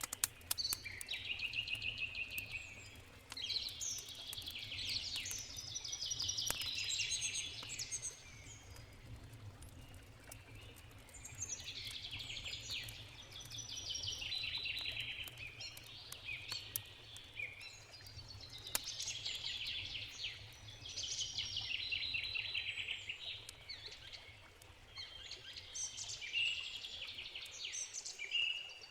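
A songbird repeats a fast trilled phrase about every five or six seconds, five times, over the sharp snaps of a crackling campfire and a steady low rush of a river.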